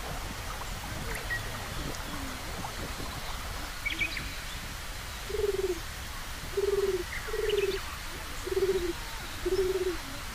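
A pigeon cooing: five low coos over about four and a half seconds, starting about five seconds in. A few faint high chirps from small birds come before and among the coos.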